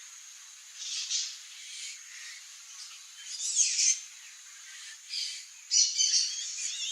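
A songbird giving a series of short, harsh, scratchy calls, about five bursts with the loudest around the middle and near the end, over a steady thin high-pitched tone.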